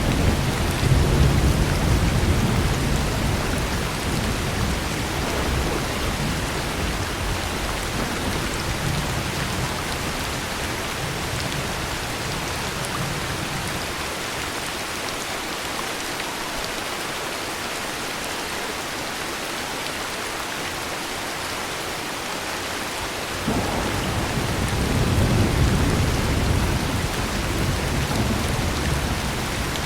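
Heavy rain falling steadily, with a low roll of thunder dying away over the first dozen seconds. About three-quarters of the way in, a second thunder rumble starts suddenly and swells before easing.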